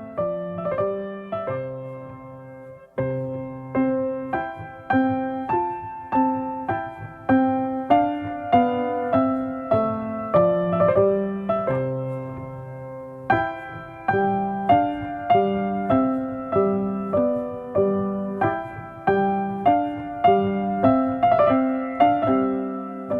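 Gentle piano music: a soft melody of single struck notes, each note ringing and fading before the next.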